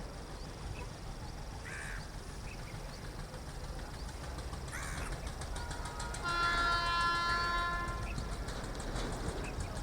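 Crows cawing a few times, then a locomotive horn sounds one steady blast of about two seconds, over a low continuous rumble.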